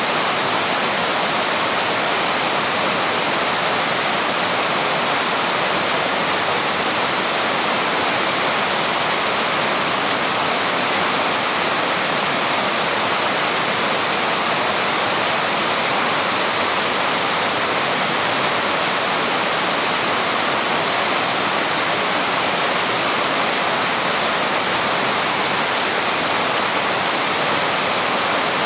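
Waterfall: the steady, even rush of water pouring over a small fall.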